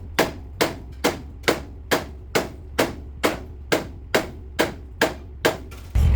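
Hammer blows on a race car's steel frame as it is straightened, struck in a steady rhythm of about two blows a second, each ringing briefly.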